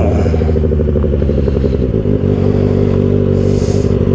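2024 Kawasaki ZX-6R's inline-four engine running at steady revs through an M4 aftermarket exhaust. A short hiss comes in about three and a half seconds in.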